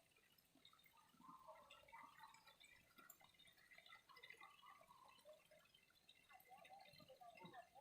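Faint trickling and dripping of flowing water, a dense patter of small plinks.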